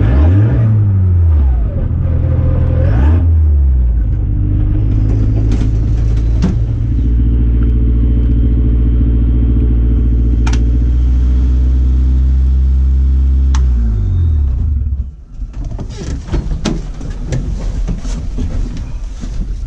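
Rally car engine revving, rising and falling twice quickly, then holding a steady note for several seconds before falling away about 14 seconds in. After that comes a quieter, rough noise with many scattered clicks and knocks.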